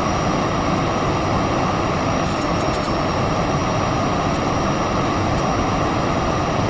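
Miele Blizzard CX1 bagless vacuum cleaner running steadily, a rush of air under a high motor whine, with a few faint clicks about two and a half seconds in.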